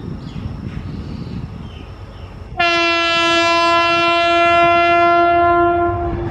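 Horn of an Indian Railways WAG-12B electric locomotive sounding one long, steady blast of about three and a half seconds. It starts suddenly about two and a half seconds in, over a low rumble.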